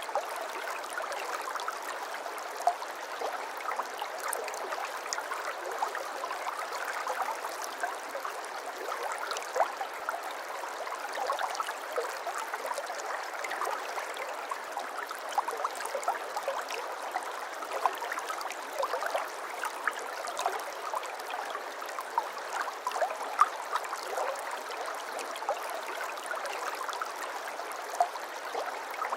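Shallow stream babbling steadily, a continuous rush dotted with many small splashes and trickles.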